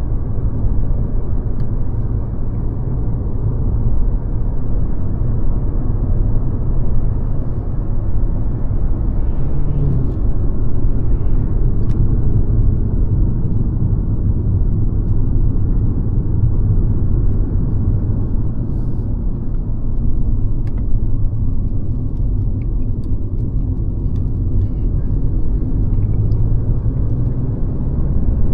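Mercedes-Benz C-Class (W206) on the move: a steady low rumble of engine and road noise.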